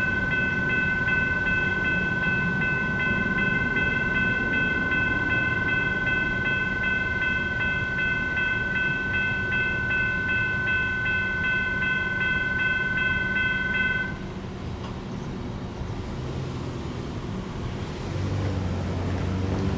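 US&S electronic crossing bell (E-Bell) at a light rail grade crossing, ringing steadily and then stopping about 14 seconds in, over rumbling train and road noise. Near the end a road vehicle's engine hums past.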